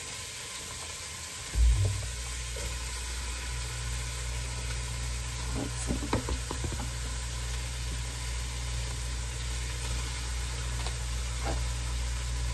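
Diced vegetables sizzling as they fry in melted butter and chicken drippings in a pot, with a few light clicks about six seconds in. A thump about one and a half seconds in, after which a steady low hum sets in under the sizzle.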